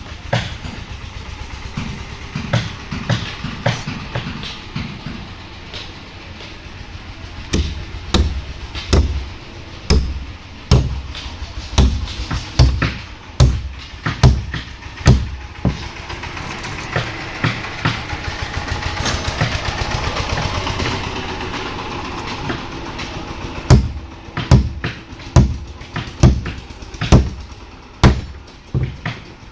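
Repeated hammer blows on wood, one or two a second, as planks are fastened in wooden boat building. Through the middle a steady noise swells and then fades.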